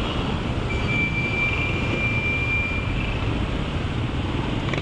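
Honda ADV 160 scooter riding in slow city traffic: a steady rumble of engine and road noise. A thin, high, steady tone is held for about two seconds near the start.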